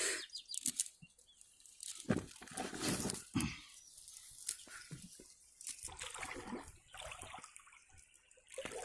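Water splashing and dripping in short, irregular bursts with quiet gaps between.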